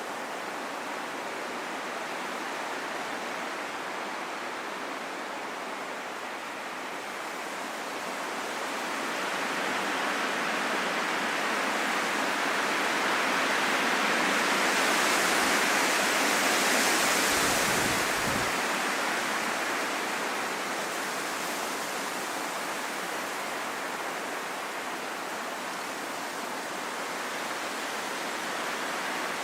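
Strong wind blowing as a steady rush, swelling into a louder gust about halfway through and easing off again.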